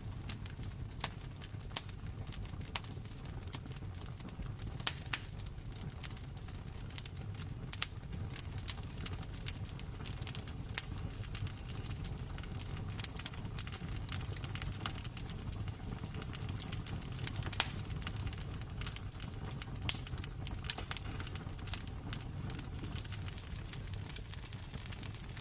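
Wood fire crackling in a fireplace: irregular small snaps over a low rumble, with a few louder pops.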